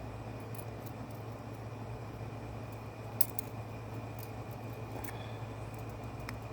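Light metal clicks and taps from small carburetor slide parts being handled by hand, with one sharper click about three seconds in, over a steady low background hum.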